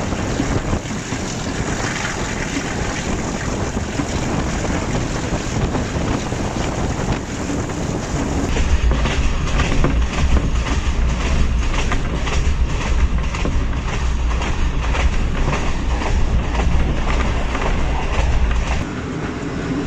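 Passenger train coach running at speed: a steady rush of wheel and wind noise, joined about eight seconds in by a heavy low rumble and a rapid clatter of the wheels over the rails, which drops away shortly before the end.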